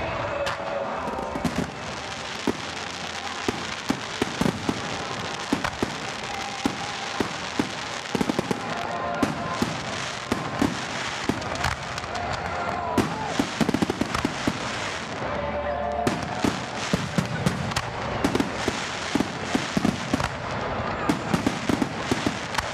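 Fireworks going off: many sharp bangs and crackles in quick, irregular succession, over a continuous hiss.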